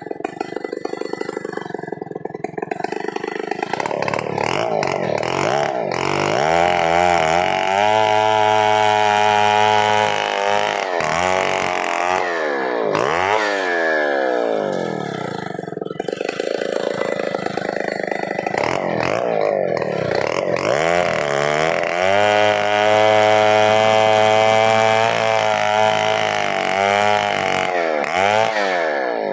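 Two-stroke chainsaw running, revving up to full speed and holding there as it cuts wood, then dropping back. It does this twice, the second run up coming a few seconds after the first drop.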